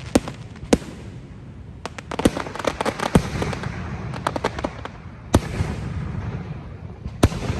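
Aerial fireworks bursting: single sharp bangs spaced a few seconds apart, with a quick run of rapid crackling pops about two to three seconds in, over a steady low rumble.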